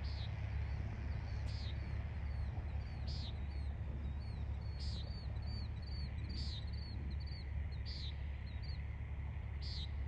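Birds calling over a steady low rumble: one bird gives a short high call about every second and a half, while another adds runs of quick chirps through the middle of the stretch.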